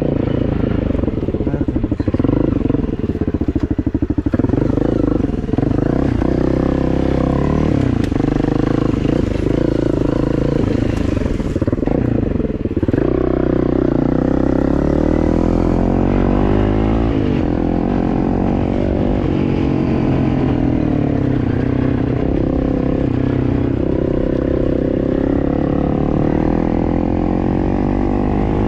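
Motor vehicle engine running continuously, its pitch rising and falling as the revs change.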